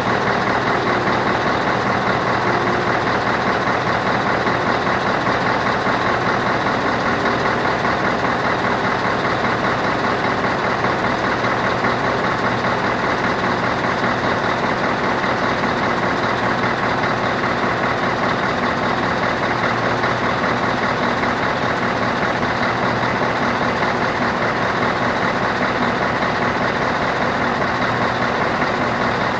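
Scania 164L 480's V8 diesel engine idling, loud and steady, without revving.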